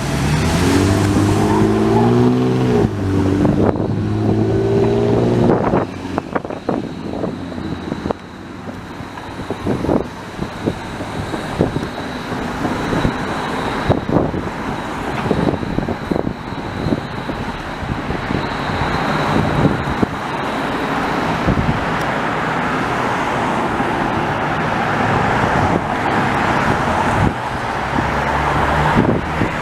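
Road traffic at an intersection. In the first few seconds a vehicle accelerates away, its engine pitch rising, dropping back once as it changes gear, then rising again. A steady traffic rush follows, with a thin high whine for a stretch and passing vehicles growing louder near the end.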